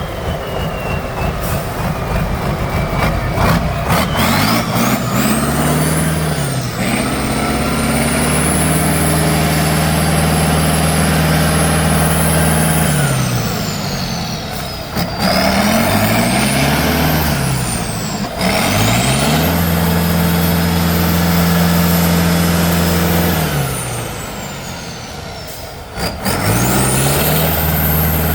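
A heavy off-road truck engine revving hard under load several times, each time climbing in pitch, holding high for a few seconds, then dropping back. A thin high whine rises and falls with the revs, and there are a few sharp knocks.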